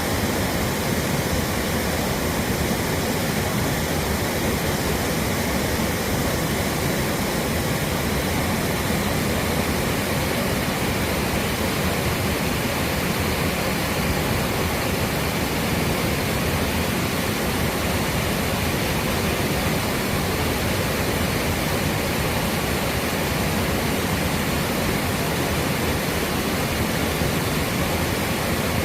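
Waterfall, water rushing and splashing in a steady, unbroken roar that covers everything from deep rumble to high hiss.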